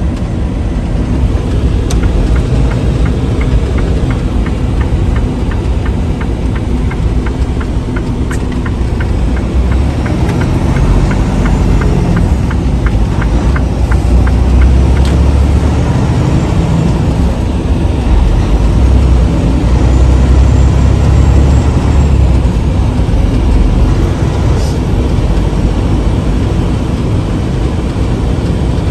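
Semi-truck diesel engine running under way with a steady low rumble that swells twice in the second half as it pulls. A regular ticking runs over the first half.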